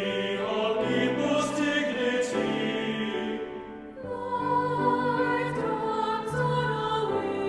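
Choir singing a hymn, sustained sung notes moving phrase by phrase, with a short lull between phrases about halfway through.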